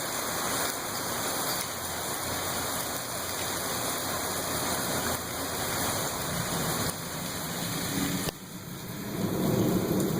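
Heavy rain pouring down in gusting wind during a severe thunderstorm, a steady hiss, with a low rumble of thunder swelling near the end.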